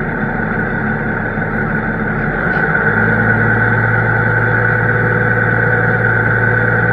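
Large farm machine's engine running steadily, with a steady high whine over it. About three seconds in it gets a little louder and a low hum comes in.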